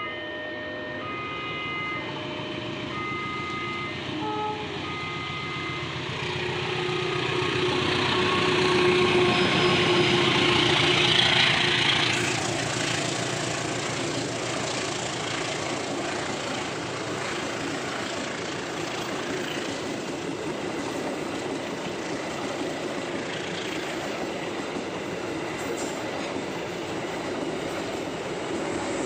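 Level-crossing warning bell chiming short alternating tones for the first few seconds, then a train approaching, growing louder to a peak about ten to twelve seconds in, and its cars rolling past steadily for the rest.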